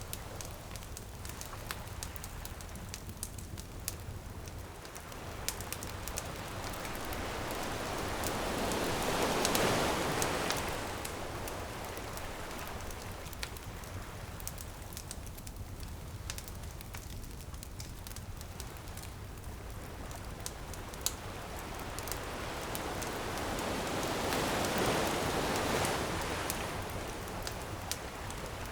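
Crackling beach bonfire with sharp pops throughout, while ocean waves surge in and wash back twice, about ten seconds in and again near the end.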